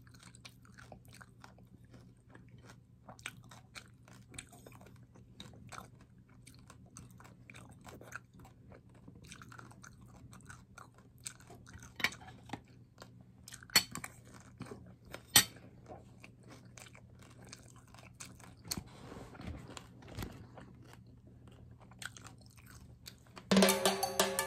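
Close-up chewing and crunching of food, with scattered clicks and a few sharper strikes in the middle. Loud background music with a beat starts suddenly near the end.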